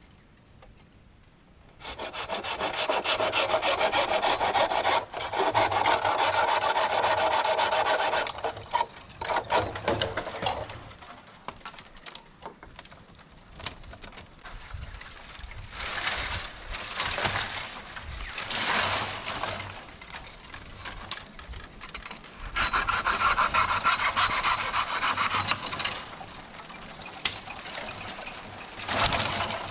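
A saw cutting through wood, in several spells of steady back-and-forth sawing: one long run of about eight seconds near the start, then shorter bursts with pauses between.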